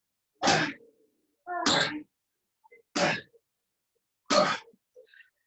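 A person breathing hard through an exercise interval: short, forceful exhales, some of them voiced like grunts, about one every second and a half.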